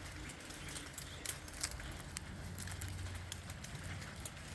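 Beech nuts and husks knocked loose by a flock of feeding birds, falling through the branches and landing: scattered, irregular sharp taps, several a second.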